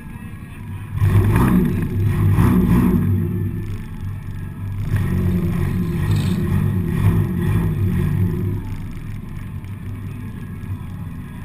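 Four-cylinder demolition-derby car engine heard from inside the car, running low, then revved hard twice in long bursts before dropping back.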